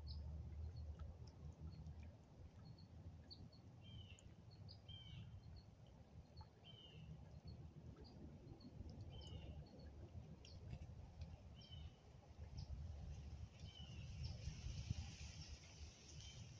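Faint birdsong: scattered short high chirps and a falling call repeated every second or two, over a low rumble. A soft hiss swells near the end.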